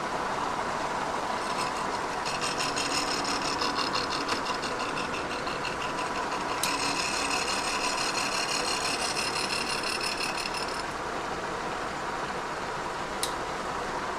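Kearney & Trecker 2HL horizontal milling machine running at about 336 RPM, with a high scratchy ringing for most of the middle as the spinning cutter is brought up to touch off on a cast iron straight edge. A sharp click about halfway through and another near the end.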